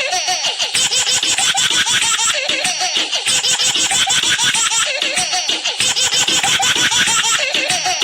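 A baby laughing in quick bursts of giggles and belly laughs, the same stretch of laughter repeating about every two and a half seconds, as in a looped sound effect.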